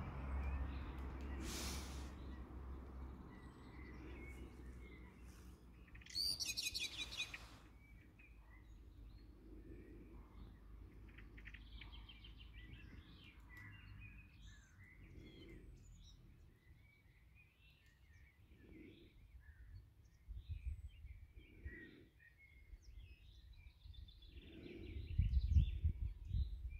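Songbirds calling and singing in the shoreline trees and reeds, many short chirps, with one louder rapid burst of notes about six seconds in. A low rumble lies under it, swelling near the end.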